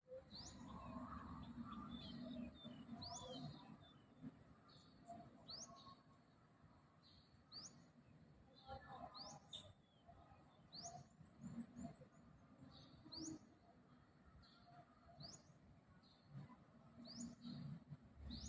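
A bird repeating a short, high, rising call about every two seconds, over a faint low murmur.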